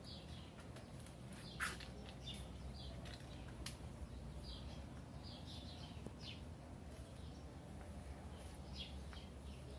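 Birds chirping faintly, short high calls scattered throughout, over a low steady background hum, with a brief sharp click about a second and a half in.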